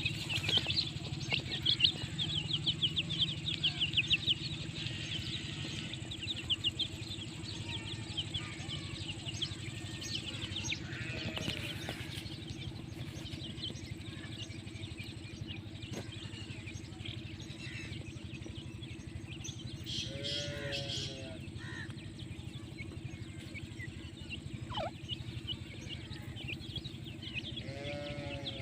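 Small birds twittering in a dense run of rapid chirps for the first several seconds, then fading. About two-thirds of the way in and again near the end, a short run of lower, pitched animal calls is heard over a steady hum.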